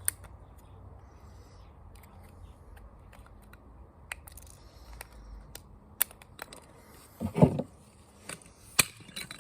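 Small plastic and electronic parts of a taken-apart portable speaker being handled: scattered light clicks and taps, with a louder knock about seven seconds in and a sharp click near the end.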